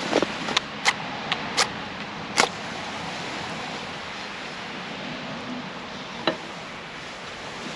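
Wood campfire crackling: sharp pops of burning wood, several in the first couple of seconds and one more a few seconds later, over a steady hiss.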